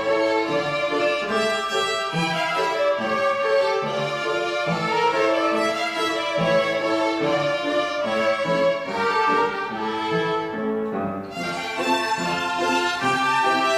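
Violin ensemble playing a melody together over a steady, rhythmic lower accompaniment, easing briefly about ten seconds in before carrying on.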